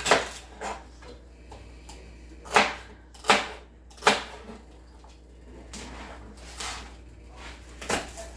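Irregular sharp knocks and clatter of kitchen work, about seven in all, spaced unevenly.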